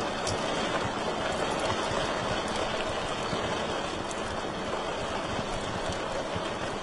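Wood fire crackling steadily: an even hiss with many small scattered pops.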